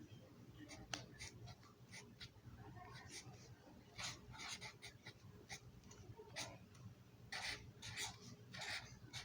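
Sharpie marker writing, a faint string of short, irregular strokes.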